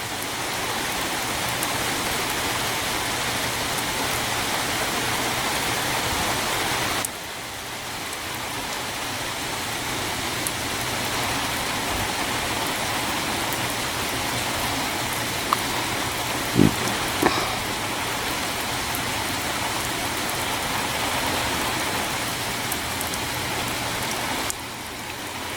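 Heavy rain falling steadily, a dense even hiss of drops. It drops suddenly in level about seven seconds in and builds back, with a few faint brief knocks later on.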